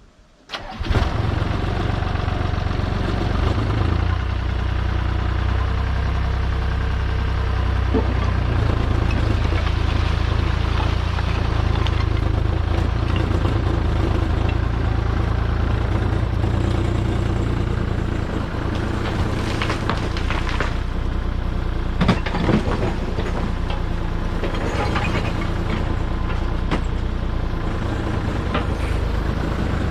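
Heavy machinery engine running steadily, coming in abruptly about a second in, with a few knocks and clatter of hard material around twenty seconds and again between twenty-two and twenty-five seconds in.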